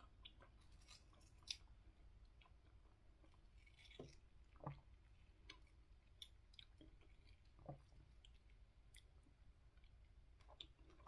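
Faint chewing of kiwi fruit, with scattered small wet clicks and ticks as a spoon scoops the soft flesh out of a halved kiwi.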